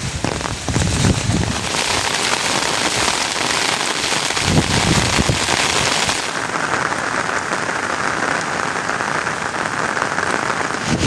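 Steady rain falling and pattering on surfaces. About six seconds in the sound changes, the high hiss dropping away and the rain sounding duller.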